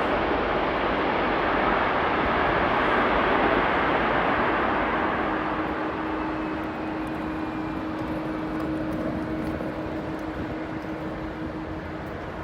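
Jet airliner roar, loud at first and fading slowly away. A steady low hum comes in about five seconds in.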